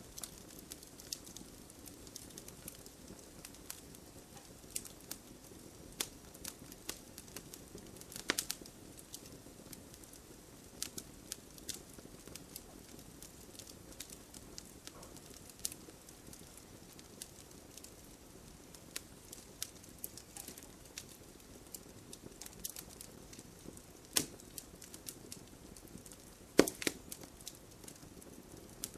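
Wood fire burning in a fireplace: a low steady hiss with irregular sharp crackles and pops, a few louder pops standing out, the loudest about three quarters of the way through.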